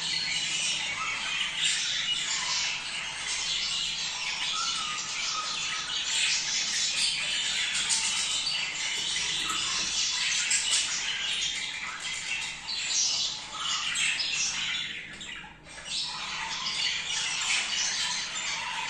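A flock of budgerigars chattering and squawking continuously: dense, overlapping warbled calls of the kind the recording offers as budgie mating calls. There is a brief lull about three seconds before the end.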